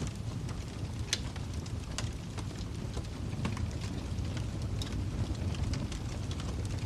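Wood fire crackling in a fireplace: irregular sharp pops and snaps over a steady low rumble of burning, with one louder pop about a second in.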